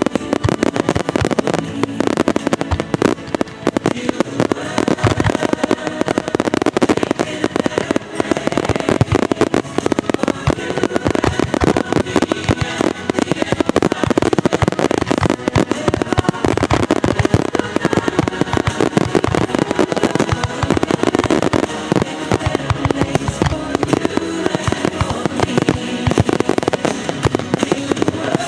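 Star mine fireworks finale: many aerial shells bursting in quick, overlapping succession, an unbroken barrage of bangs.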